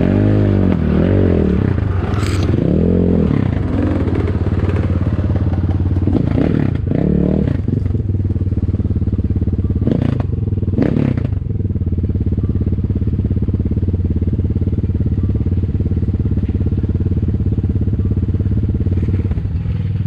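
Ataki DR 250 enduro motorcycle's single-cylinder 172FMM engine, which has no balance shaft, blipped a few times in the first few seconds, then idling steadily. A couple of sharp knocks come about ten seconds in.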